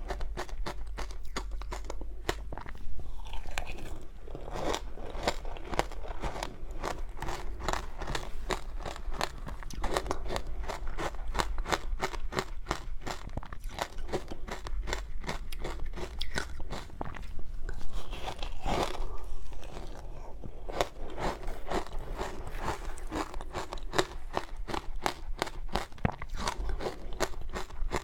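Close-up chewing and crunching of powdery shaved ice dusted with matcha: a dense, rapid run of soft crunches, with a few louder bites.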